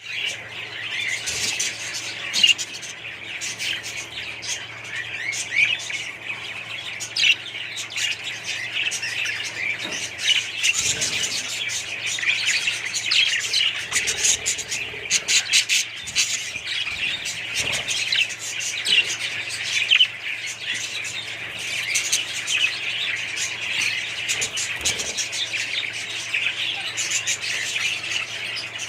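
A flock of small parrots chirping and chattering continuously, many calls overlapping, with a steady low hum underneath.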